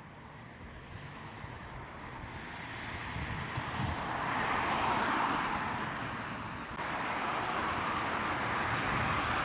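A passing motor vehicle: a steady rushing noise that swells to a peak about five seconds in, eases off, then rises again abruptly and holds steady.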